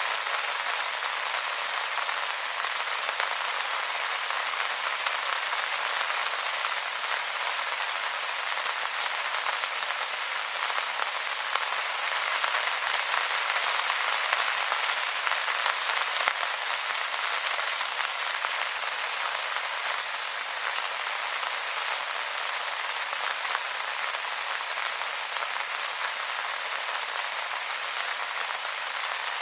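Steady rain falling on wet leaves, an even patter of many drops with no let-up.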